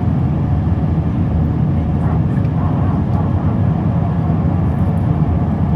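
Airbus A319 cabin noise heard from inside the cabin: a steady low rumble of the engines and airflow, with no change in level.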